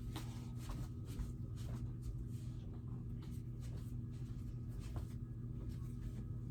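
Faint rustling and a few soft taps as things are handled and moved, over a steady low hum in the room.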